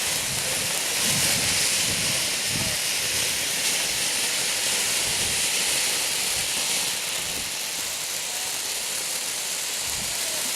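A firework burning with a steady, high hiss of spraying sparks, with a few faint low thuds.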